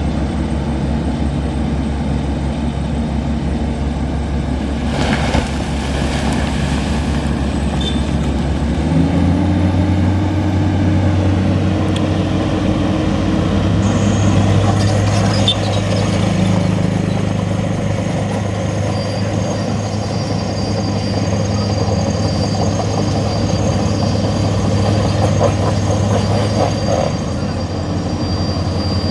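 Nissan Diesel truck engine running, its pitch stepping up about nine seconds in and holding at the higher speed. A brief hiss comes about five seconds in.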